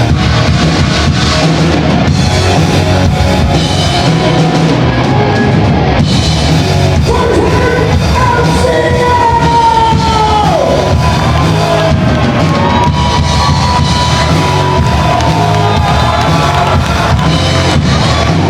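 Live rock band playing, drum kit and guitars throughout, with a singer holding long notes; one sung note slides down about halfway through, and another long note is held soon after.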